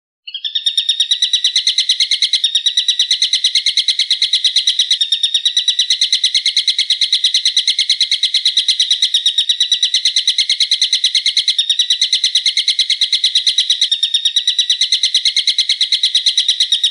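A bird's shrill call repeated as a fast, even chatter of about nine notes a second, with a few very brief breaks along the way.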